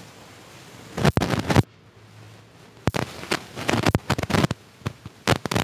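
Mouth chewing crunchy fried street food: crackly crunching in three spells, about a second in, from about three to four and a half seconds, and again near the end.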